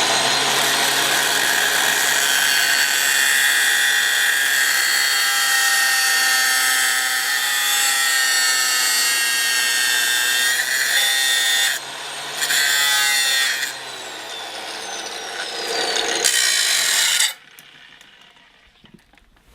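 Old electric power tool cutting a steel Torx bit in half: a steady motor whine with harsh grinding, easing off twice in the second half and stopping a couple of seconds before the end.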